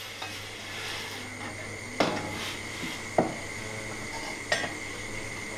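Dishes or pots clinking: three sharp knocks a little over a second apart, over a steady background hum.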